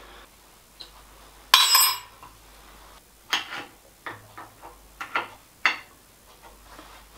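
Steel tooling being handled during a machine setup: one loud ringing metal clink about a second and a half in, then several lighter metallic knocks and taps.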